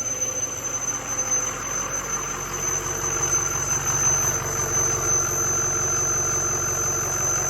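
Ford 6.0L Power Stroke V8 diesel running with its variable geometry turbo commanded fully closed for maximum exhaust back pressure, with a steady high-pitched squeal over the engine. The squeal is an exhaust leak ahead of the turbo, from a cracked Y-pipe.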